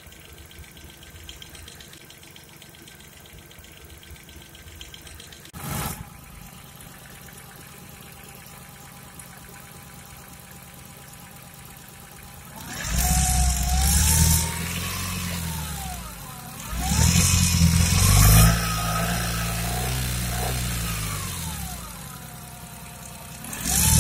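Petrol car engine idling steadily with its oil filler cap off, with a single sharp knock about six seconds in. In the second half it is revved up and down twice, starting a third rev at the end. It is the engine that shakes and makes an annoying rough noise when the accelerator is pressed.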